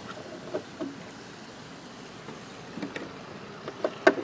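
A few light knocks and clicks of a part being handled and fitted in a car's engine bay, the loudest knock near the end, over steady background noise.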